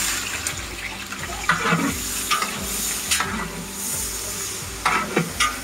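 Food frying and sizzling in hot oil in a cooking pot, with a spoon stirring and knocking against the pot several times.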